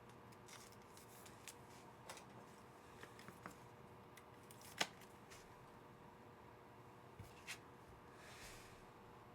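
Faint clicks and flicks of trading cards being handled and sorted through a freshly opened pack, with one sharper click about halfway through.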